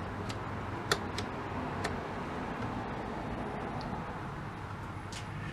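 Light clicks and taps of hands working a vacuum tube tester, a few close together in the first two seconds and one more near the end, over a steady low hum.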